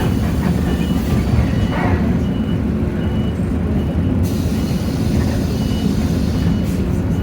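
Hino J08E-VN diesel engine of a Hino city bus running steadily, heard from inside the bus, with a short high beep repeating about every three quarters of a second.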